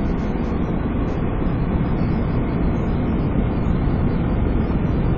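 Steady road noise inside a moving car: the engine running and snow tires rolling over a snow-covered road.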